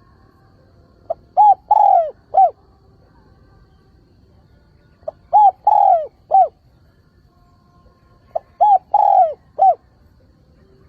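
Spotted dove cooing: three identical calls about three and a half seconds apart, each a faint short note followed by a quick coo, a longer drawn-out coo and a final short coo, each coo dropping in pitch at its end. It is a decoy dove's call, used to lure wild doves and provoke them to call back.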